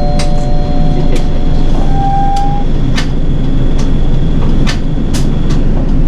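A Nishitetsu city bus heard from inside the cabin: its engine running with a steady low rumble and scattered sharp clicks and rattles. Brief electronic tones sound in the first three seconds.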